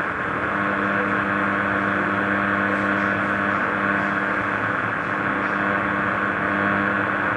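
Grundig Satellit 3400 world receiver on shortwave giving a steady hiss of static with low steady hum tones, muffled by the narrow AM bandwidth, with no programme coming through.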